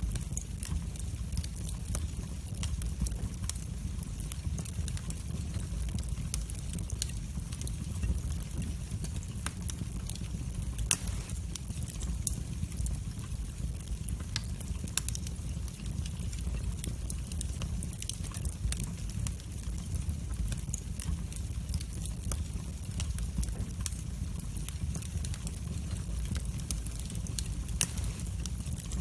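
Wood fire burning in a fireplace: a steady low rumble of the flames with irregular sharp crackles and pops throughout, two of them louder, about eleven seconds in and near the end.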